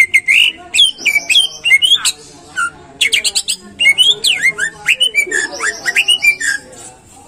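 Greater green leafbird (cucak ijo) singing a fast, varied song of sharp whistled notes, sweeps and chatter, stopping shortly before the end.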